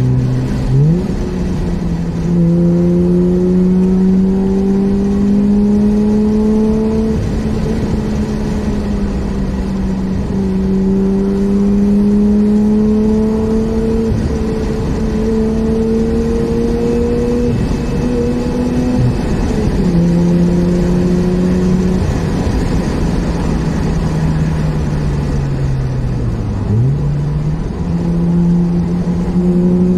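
Mazda RX-8's twin-rotor Wankel rotary engine heard from inside the cabin, pulling steadily through the gears. The revs climb slowly in each gear and drop at each shift, several times. Near the end they fall low and then jump sharply back up.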